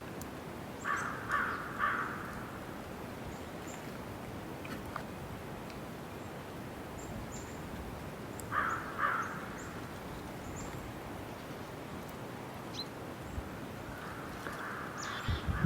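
Bird calls over a steady hiss: a bird gives groups of short calls, three notes about a second in, two more about halfway, and several near the end. Faint high chirps are scattered between them.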